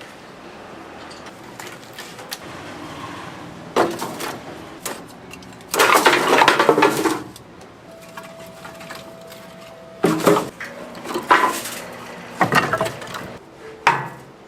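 Kitchen clatter: dishes, pans and utensils knocked and set down in a series of sharp knocks and clinks, with a louder rattling stretch about six seconds in.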